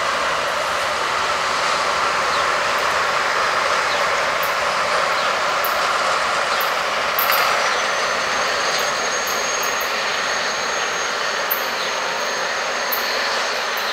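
Diesel-hauled freight train of tank wagons running round a curve, a DB class 203 diesel locomotive working under power with wheels rolling on the rails as a steady rumble. About halfway through, a thin high squeal of wheels on the curve sets in and holds.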